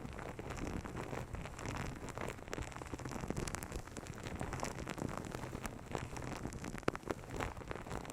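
Hands massaging and rubbing close against an ASMR microphone: a dense, steady crackle with many small sharp clicks.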